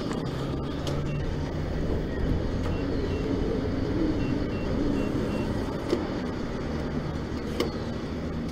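Steady low rumble of vehicles, with a faint, repeating high beep and a couple of sharp clicks.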